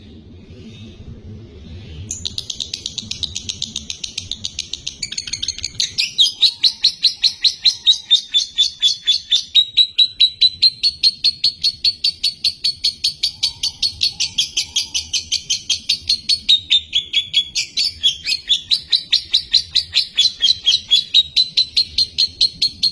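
Lovebird singing one long unbroken run of rapid, high chirps repeated several times a second. The song starts about two seconds in and grows louder a few seconds later.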